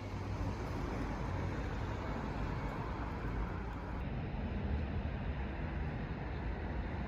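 Steady outdoor ambient noise: an even low rumble with a soft hiss over it.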